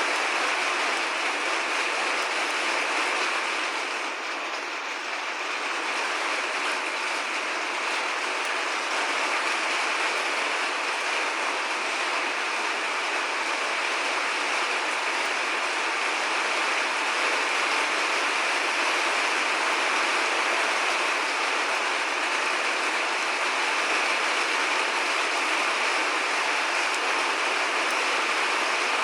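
Steady, heavy rain: a continuous, even hiss with no thunder, easing slightly about four seconds in.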